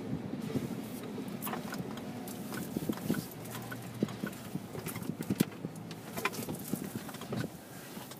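Freight train cars rolling past, their wheels clacking irregularly over the rail joints and crossing, with scattered metallic knocks over a steady rumble.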